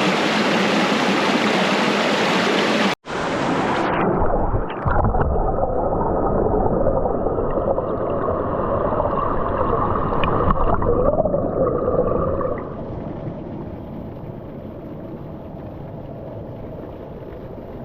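Rushing mountain stream water, then after a sudden break about three seconds in, a muffled, gurgling underwater sound with the high hiss gone, as from the camera dipped into the stream; it drops quieter for the last few seconds.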